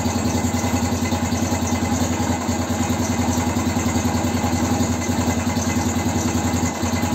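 BM Motard motorcycle's engine idling steadily with an even fast beat, freshly rebuilt and carrying a knock whose origin on the engine is still being hunted.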